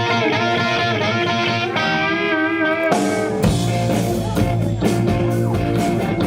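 Rock music led by guitar, held notes with some wavering pitch; about halfway through the band comes in fuller, with a heavy low end and a steady beat.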